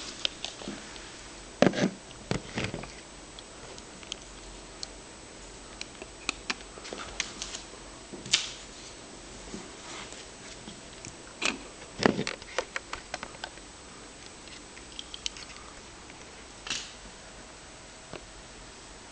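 A 10-week-old English bulldog puppy snoring in her sleep: irregular short snores, loudest about two seconds in and about twelve seconds in, with scattered small clicks between.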